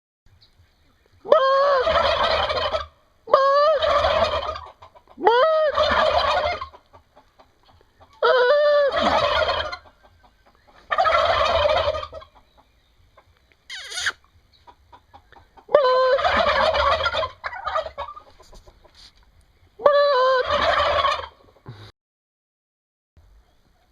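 Turkeys gobbling in a series of about seven loud gobbles, each lasting around a second and a half, with short pauses between them.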